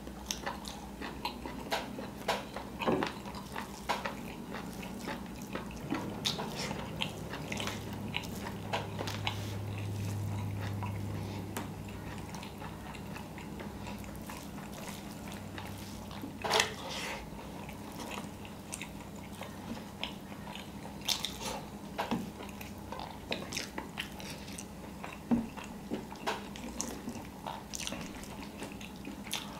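Close-up eating sounds of a man chewing biryani by hand: wet chewing and lip smacks, with scattered short clicks and crunches, one louder about halfway through.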